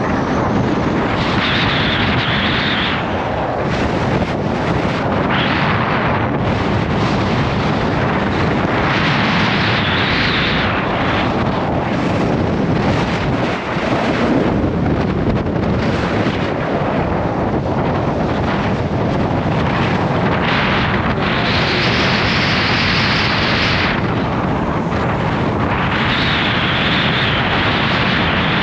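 Gale-force wind buffeting the microphone: a loud, continuous rumbling rush that swells and eases in gusts every few seconds.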